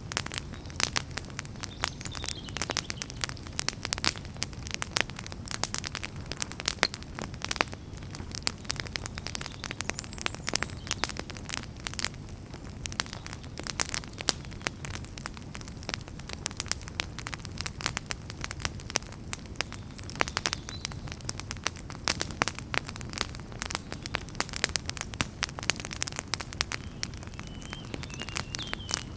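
Wood campfire crackling and popping: dense, irregular snaps over a low steady rumble of flame, with a few faint high whistles now and then.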